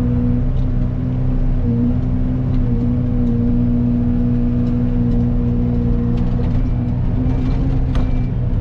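Excavator engine and hydraulic Fecon forestry mulcher head running steadily while mulching brush, a loud even drone whose pitch sags briefly a few times as the drum takes load.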